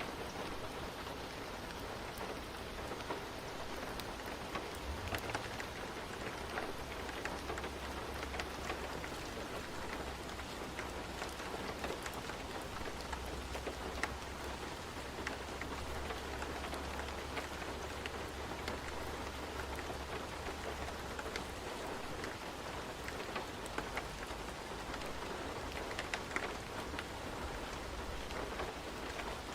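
Steady rain falling, with scattered small sharp ticks through it. A low rumble sits under the rain from about five seconds in until about two-thirds of the way through.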